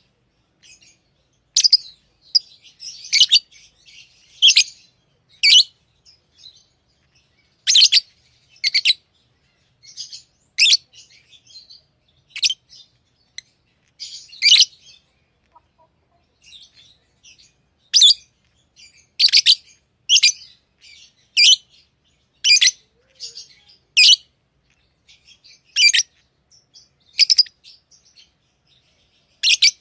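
Pet lovebirds chirping: short, sharp, high calls, one every second or so with brief pauses between.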